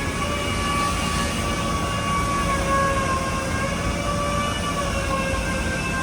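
A machine motor running steadily with a high whine whose pitch wavers slightly, over a rough rushing noise.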